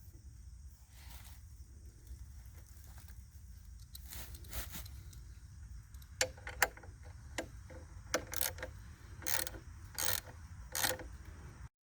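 Metal parts being handled: scattered short clicks and clinks, more frequent in the second half, over a low steady rumble. The sound cuts off abruptly near the end.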